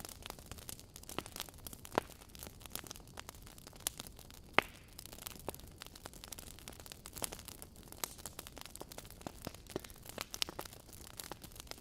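Burning logs in a fireplace crackling over a low hiss: irregular sharp pops and snaps, the loudest about two seconds in and about halfway through.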